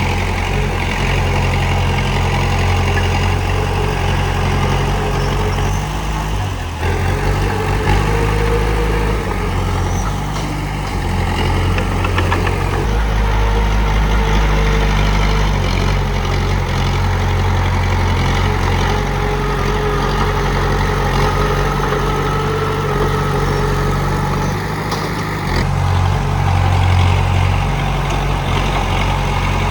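Komatsu D31P bulldozer's diesel engine running steadily, its note and loudness shifting a few times.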